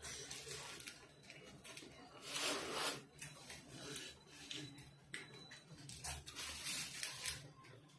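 Close-up mouth sounds of someone eating a fried green chilli pakoda: wet chewing with scattered small crunches and clicks, and one audible breath lasting about a second, between two and three seconds in.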